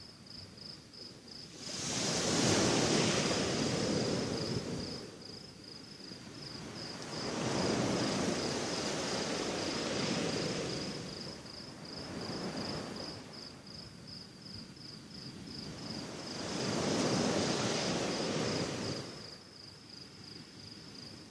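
Sea waves washing onto the shore in slow surges about every five seconds, three strong and one weaker, each building and fading over two to three seconds. A steady, fast, high-pitched pulsing chirp of insects carries on throughout.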